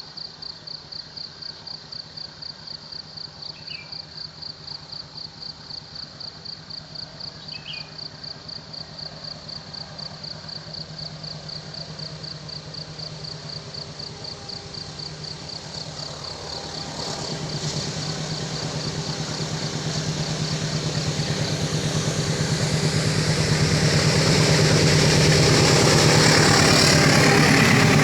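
Railway level-crossing warning bell ringing in rapid, even pulses, about three a second. From about halfway through, a heavy diesel engine draws closer and grows steadily louder until it drowns out the bell.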